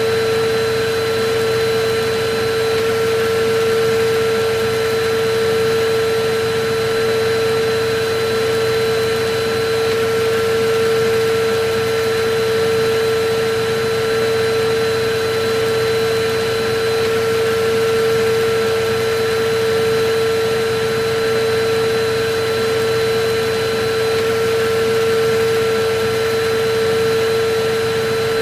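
Electric vacuum cleaner running steadily: a constant motor whine over an even rush of air.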